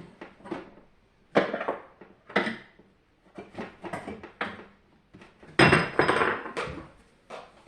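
Hard parts being handled during a dehumidifier teardown: a run of separate clatters and clinks, the longest and loudest about six seconds in.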